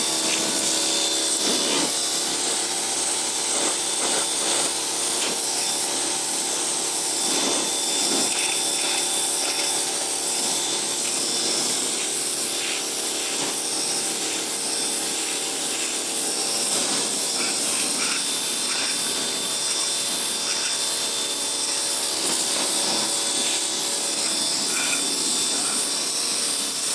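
Electric pressure washer running steadily, its motor humming under the hiss of the high-pressure water jet.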